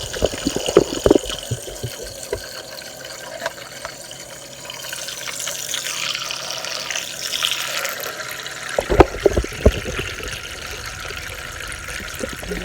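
Water swishing inside a small plastic makeup-brush washing machine as it runs, with sharp knocks and clatters in the first couple of seconds and again about nine seconds in.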